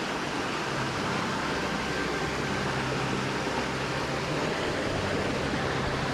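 Steady rushing of water falling over the rock cascades of a waterfall, an even hiss with no break.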